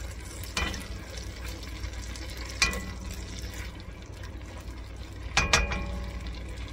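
Diced onions and carrots sizzling gently in melted butter in an enamelled pan while being stirred with a silicone spatula. A few knocks of the spatula against the pan come through, the loudest, a quick pair, near the end.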